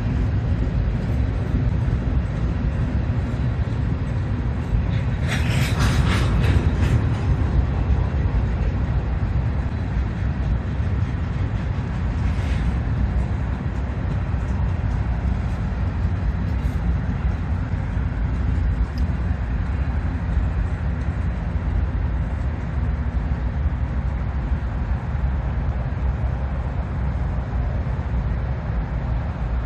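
Diesel freight locomotives running with a steady low rumble, with a short burst of hissing noise about five seconds in.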